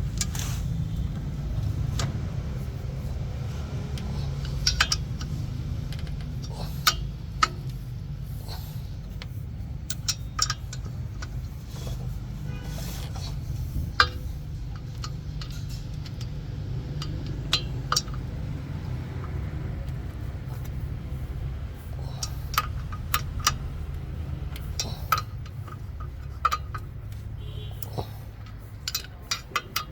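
Metal tools and parts clinking and scraping at irregular intervals over a steady low hum.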